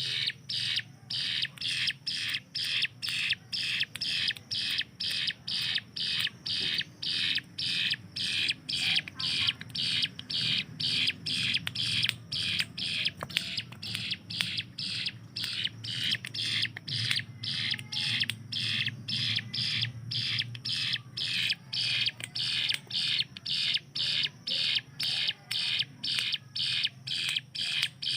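A ciblek gunung (a prinia) calling in a fast, unbroken string of short, sharp notes, about two to three a second, over a low steady hum. This is the rapid 'tembakan' (shooting) call kept for training other songbirds.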